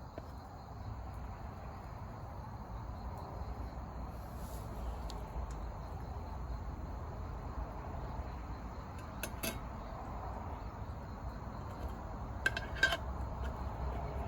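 Steady outdoor ambience with insects chirring, broken by a few light metallic clinks: one about two-thirds of the way in and a quick cluster near the end, like utensils touching a pan.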